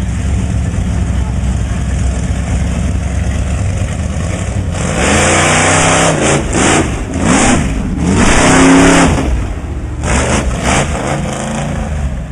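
Truck engine running steadily, then revving hard about five seconds in, its pitch climbing and falling for several seconds under a loud rushing noise; it revs again briefly near the end.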